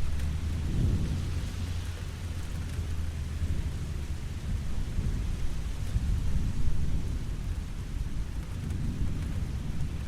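Steady rain falling, with a deep low rumble under it that swells about a second in and again around six to seven seconds.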